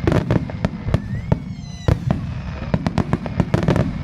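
Aerial fireworks display: many sharp bangs and cracks of bursting shells in quick succession over a continuous low rumble, with a brief whistle about a second in.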